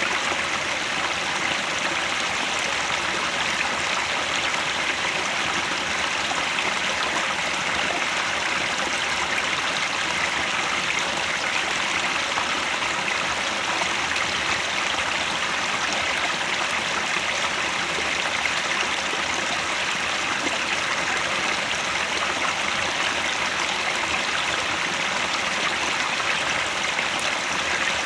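Mountain headwater stream flowing over rocks, a steady rushing and babbling that does not change.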